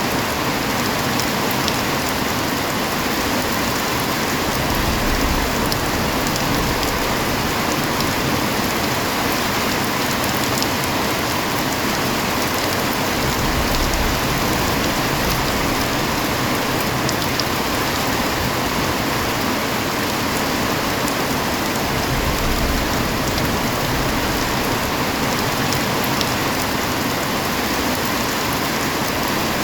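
Heavy rain falling steadily, a dense even hiss of drops with scattered individual drop taps.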